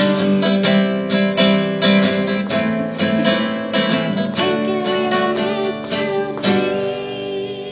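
Acoustic guitar strummed in a steady rhythm, about two to three strums a second, with no voice over it. These are the closing instrumental bars of a solo song, getting quieter near the end.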